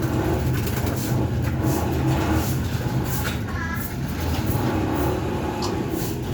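Steady low engine rumble with a brief high wavering call about halfway through.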